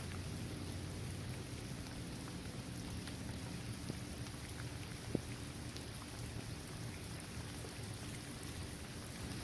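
Steady rain falling on a basketball court, trees and grass, with scattered single drops ticking and one sharper drip about five seconds in.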